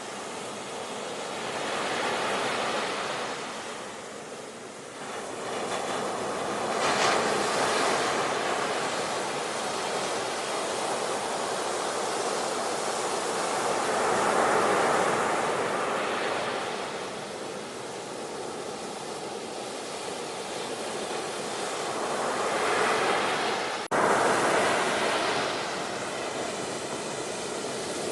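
Ocean surf: waves breaking and washing in, swelling and fading every few seconds. About 24 seconds in, the sound jumps abruptly louder.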